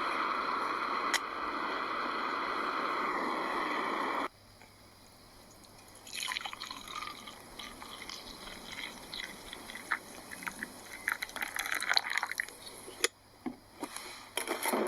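A steady rushing noise that cuts off abruptly about four seconds in, followed by hot water being poured into a cup for coffee: irregular trickling and dripping with small clinks.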